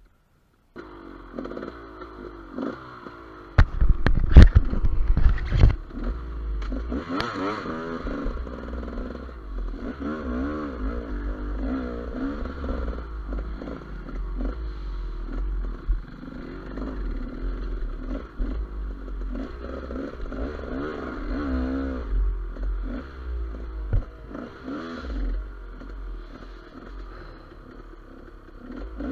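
GasGas EC200 two-stroke enduro motorcycle riding off-road, its engine revving up and down. A cluster of loud knocks and clatter comes about four to six seconds in.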